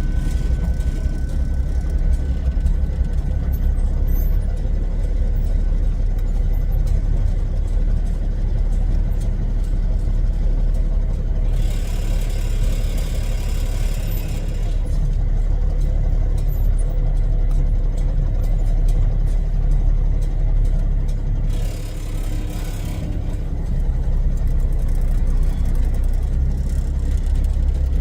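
Heavy diesel engine running steadily at low revs. Two bursts of hiss break in, one about twelve seconds in that lasts about three seconds and a shorter one about twenty-two seconds in.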